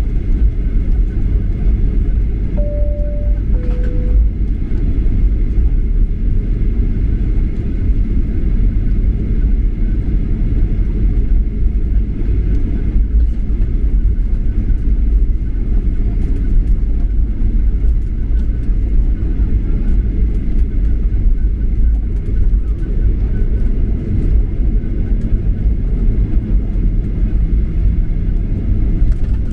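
Steady cabin noise of a Boeing 737-800 airliner, a loud constant low rumble, with a two-tone high-low chime about three seconds in.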